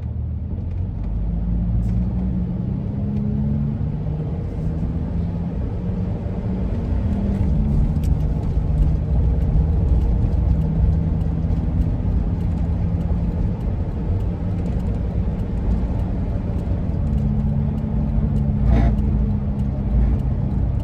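Ford E-350 camper van driving, heard from inside the cabin: a steady low rumble of engine and road noise, with faint low tones that shift in pitch now and then.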